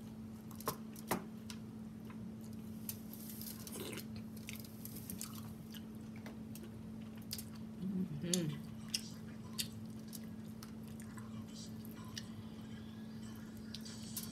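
Close-miked eating sounds from a deshelled seafood boil in spicy sauce: wet chewing and lip smacks with short sharp clicks scattered throughout, over a steady low hum. A brief hummed "mm" about eight seconds in.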